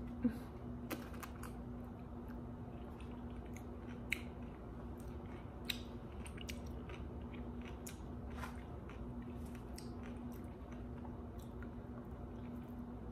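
Mouth-close chewing and biting of a pickle, with a crisp bite about a quarter second in and scattered crunches after it, over a faint steady low hum.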